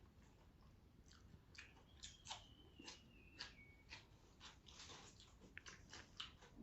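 Close-up chewing and biting of food: irregular wet mouth clicks and smacks, growing busier after the first second or so. A faint, thin high tone falls slightly in pitch for about two seconds in the middle.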